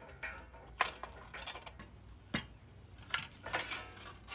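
Light metallic clinks and rattles from a piece of thin sheet metal being handled and fitted: a few sharp single clicks about a second or more apart, then a quick cluster of them a little past three seconds in.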